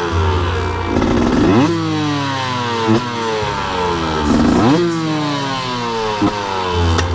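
KTM 125 two-stroke motorcycle engine revving, its pitch climbing and dropping again and again as the throttle is worked, with a few sharp cracks near the end.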